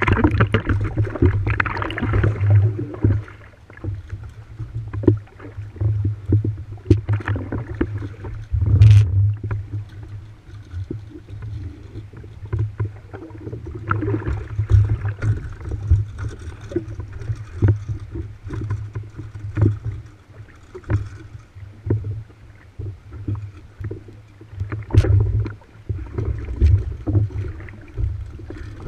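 Water splashing and rushing along the hulls of a proa under sail, over a heavy, uneven low rumble, with scattered knocks; busiest in the first few seconds.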